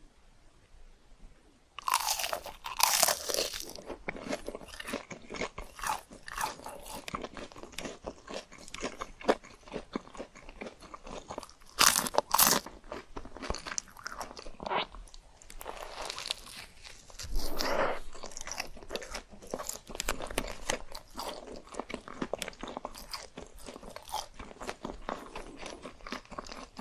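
A person biting and chewing crunchy food, starting about two seconds in. There are loud crunches at the first bite, again around twelve seconds and near eighteen seconds, with continuous crackly chewing in between.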